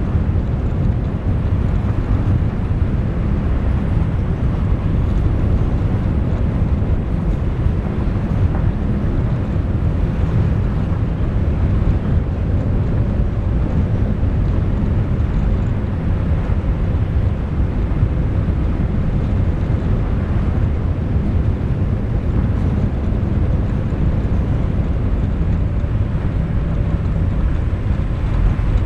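Steady low rumble of a moving vehicle, engine and road noise without let-up.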